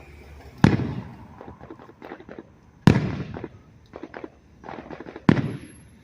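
Fireworks going off: three loud booming bursts a couple of seconds apart, each with a trailing rumble, with lighter crackling pops in between.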